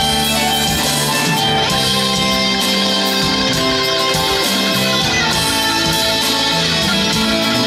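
Live band playing an instrumental passage led by guitars, with drums, at a steady loudness.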